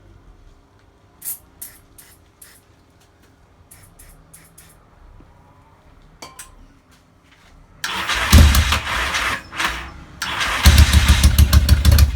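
A few light clicks and taps, then a Yamaha XS650 parallel-twin is cranked on its electric starter in two loud bursts, firing unevenly as it struggles to start. The owner suspects it is slightly over-jetted.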